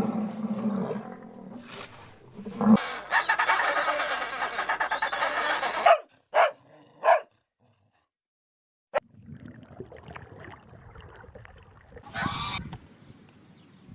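Animal calls in several short, separate clips, with a stretch of near silence in the middle.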